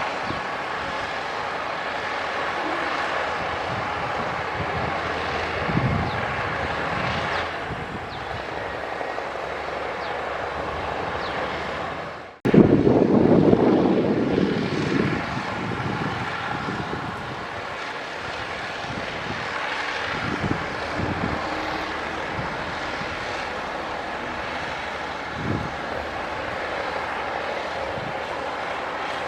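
Diesel engines of heavy earthmoving machinery running steadily under load. About 12 seconds in the sound breaks off for an instant, then comes back with a louder, deeper rumble that eases off over the next few seconds.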